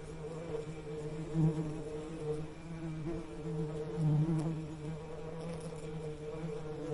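Bees buzzing: a steady low hum that swells briefly about a second and a half in and again around four seconds.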